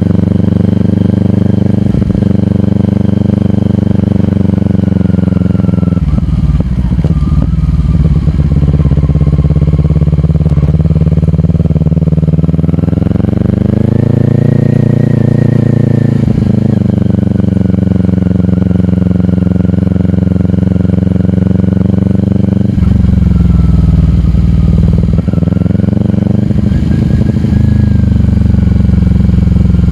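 Kawasaki Ninja 400's parallel-twin engine running through a slip-on exhaust while riding, the revs shifting up and down a few times and climbing to a higher steady note about 13 seconds in.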